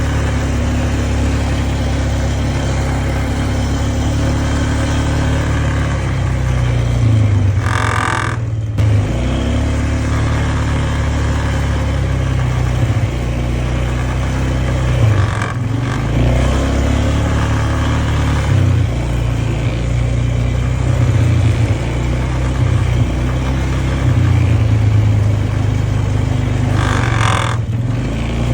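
An engine runs steadily with a low drone, its load easing up and down, and a short, brighter noise breaks in twice, about eight seconds in and near the end.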